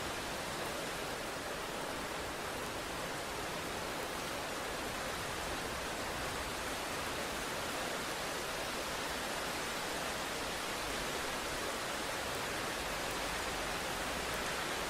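Rain falling steadily, an even hiss with no thunder and no change in level.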